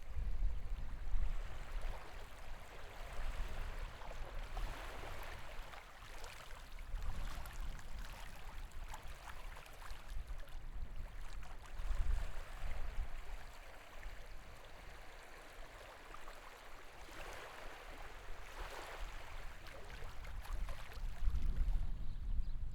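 Sea water washing and swelling in slow surges, with wind buffeting the microphone.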